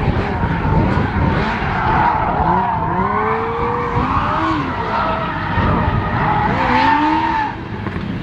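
Rally car engine revving up and down through the gears while the tyres squeal steadily. The sound drops away near the end.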